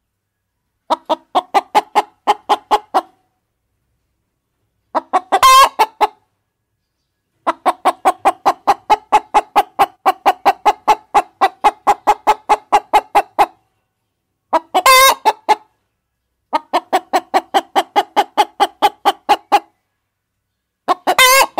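Hens clucking in quick runs of short, evenly spaced clucks, about four a second, with dead-silent gaps between the runs. Three louder, shriller calls break in, about five seconds in, in the middle, and near the end.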